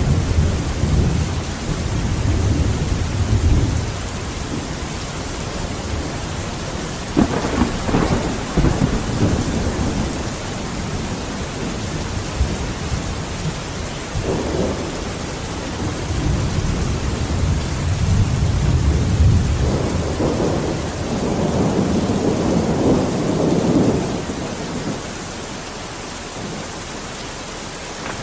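Steady rain with rolling thunder. There is a rumble at the start, a sharper crack of thunder about seven seconds in, and a long rolling rumble from about seventeen to twenty-four seconds, which then eases back to rain alone.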